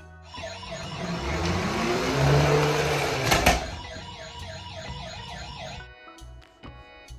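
Toy ambulance's electronic siren warbling up and down in a fast repeating pattern, under a rushing noise that swells and fades, with a sharp click about three and a half seconds in. Background music plays throughout.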